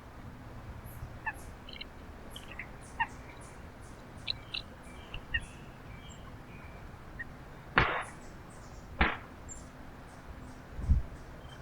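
Small birds chirping at a backyard feeder, many short high calls and chip notes scattered throughout. Two louder short noisy bursts about a second apart come past the middle, and a low thump comes near the end.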